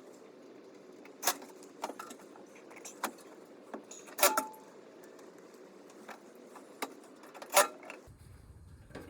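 Scattered metallic clicks and clanks, as of hand tools and metal parts being handled, with three louder knocks among lighter ticks.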